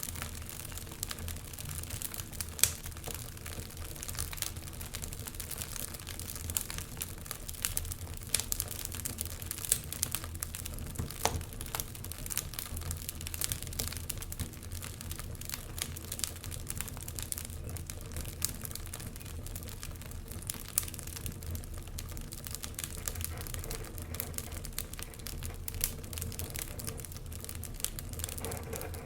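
Wood fire crackling in a fireplace, with frequent irregular pops and snaps over a steady low rumble.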